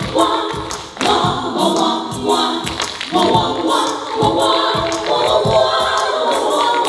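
A vocal group singing in close harmony without lyrics, with a steady beat of short percussive hits under the voices.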